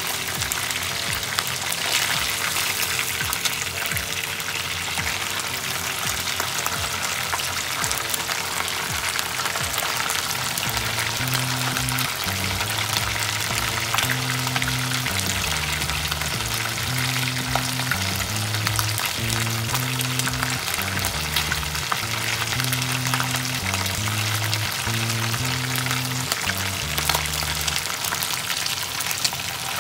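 Chicken pieces shallow-frying in hot oil in a frying pan: a steady sizzle with dense crackling. Background music with a bass line plays underneath, most plainly from about eleven seconds in.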